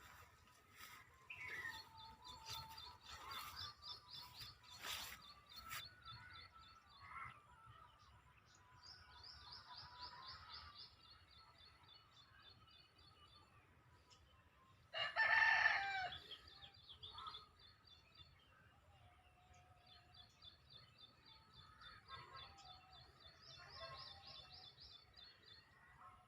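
A rooster crows once, about fifteen seconds in, the loudest sound here. Around it, small birds sing repeated fast, high trills, and there are a few soft clicks in the first few seconds.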